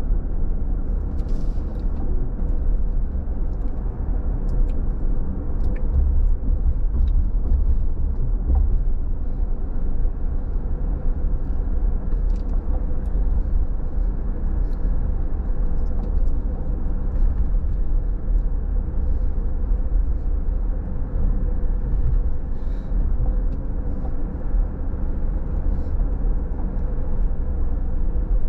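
A car driving: a steady low rumble of road and engine noise, with faint scattered ticks over it.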